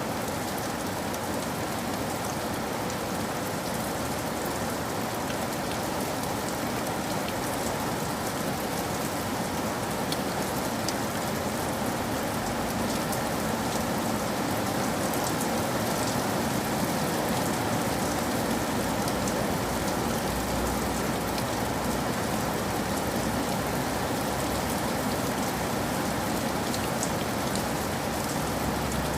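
Steady rain falling on a roof, with faint scattered drop clicks.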